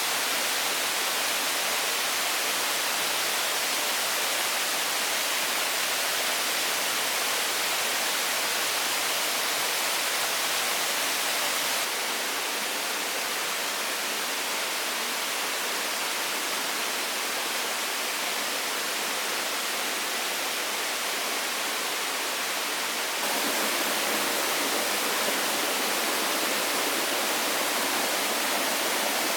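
Steady rushing hiss with no distinct events. Its level and tone shift abruptly about twelve seconds in and again about twenty-three seconds in.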